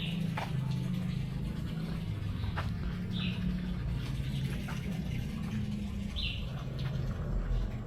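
A bird giving short high chirps about every three seconds, three in all, over a steady low hum.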